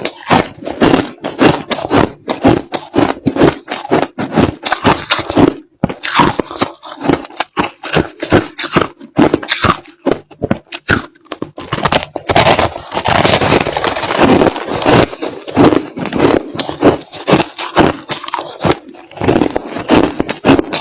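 White crushed ice being chewed close to the microphone: rapid crunches, about two to three a second, running together into a denser stretch about two-thirds of the way through.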